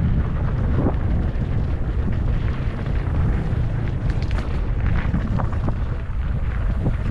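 Motorcycle engine running on a dirt trail under heavy wind rumble on the microphone, with scattered short knocks and clicks.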